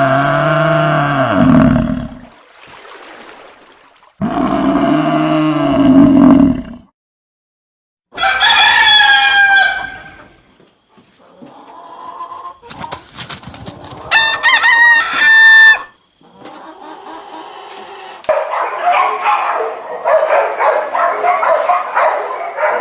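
Two long, low cow moos, each rising then falling in pitch, then a rooster crowing, a run of quick clucks, and a flock of fowl calling over one another from a little past the middle to the end.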